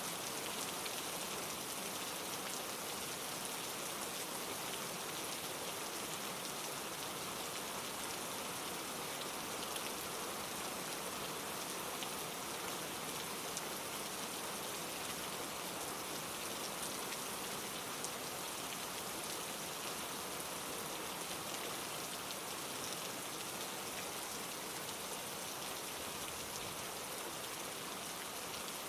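Steady rain falling: an even, unbroken hiss scattered with small drop ticks.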